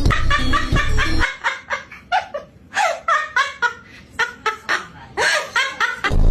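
A bird giving a rapid series of laughing calls, many short notes a second, each bending up and down in pitch. Music with a heavy bass plays under the first second or so and comes back near the end.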